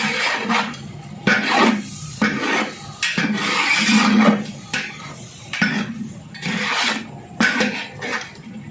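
Metal ladle stirring and scraping in a metal cooking pot, in repeated strokes about once a second.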